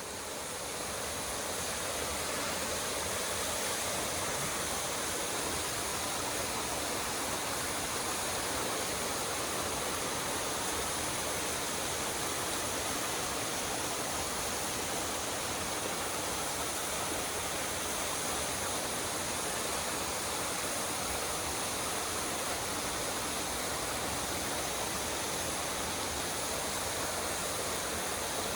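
Mountain waterfall, water falling and rushing steadily; it fades in over the first second or two.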